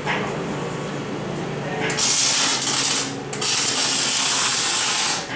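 Two loud hissing sprays, the first about a second long and the second about two seconds long, with a short gap between them.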